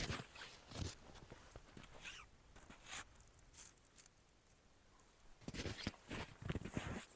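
Irregular rustling and crunching handling noises, thickest near the end.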